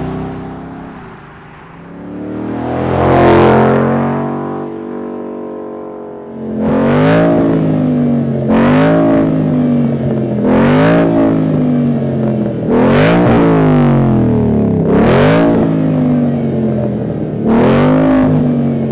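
A Mustang GT's 5.0L V8 through a straight-through, muffler-delete stainless axle-back exhaust, revved in place. It falls back from a rev at the start, is revved once more, and settles to idle. From about six seconds in come six quick blips of the throttle, roughly two seconds apart, each rising sharply and dropping back to idle.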